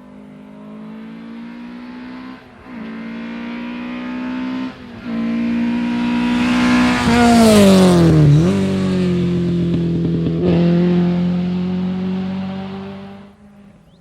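A Lada rally car approaching at full throttle, its engine climbing through the gears with brief dips at two upshifts, then passing close by with a sharp drop in pitch and pulling away through another upshift before fading.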